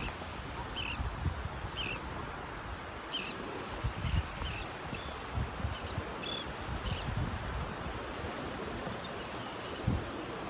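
Seaside ambience: steady surf and wind buffeting the microphone, with about a dozen short, high bird chirps scattered through.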